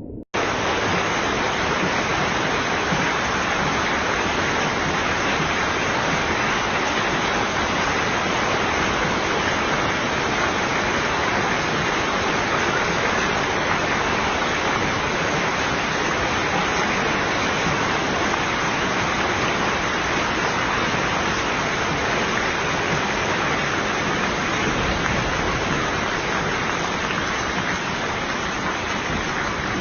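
Heavy rain pouring down, a steady dense rush of water that cuts in suddenly at the start.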